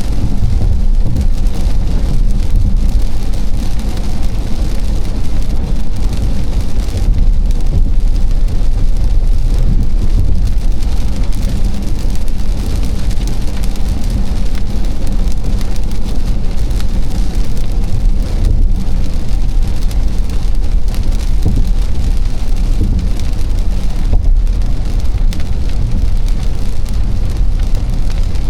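Car driving on a wet expressway in rain: a steady low road rumble under the hiss of rain and tyre spray.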